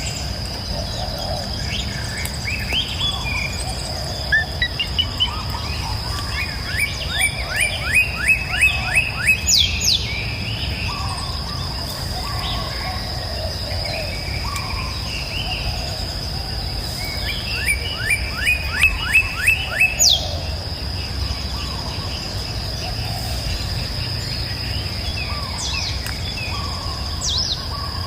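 Outdoor bird chorus with scattered chirps over a steady high thin whine and a low rumble. Twice, a bird sings a quick run of about nine rising notes that ends in a high downward note, roughly a quarter of the way in and again about two-thirds through.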